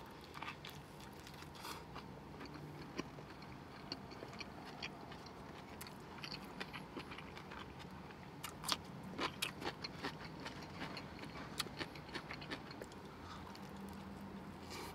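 Quiet close-up eating sounds: a man biting into and chewing a sub sandwich, with many small wet mouth clicks and smacks that come thickest a little past halfway through.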